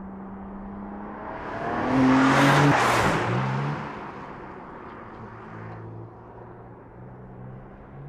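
2021 BMW M3 Competition Sedan's turbocharged inline-six running as the car drives past at speed. A loud swell comes about two seconds in as it passes close, with the engine note dropping and climbing again, then it settles to a lower, quieter steady note.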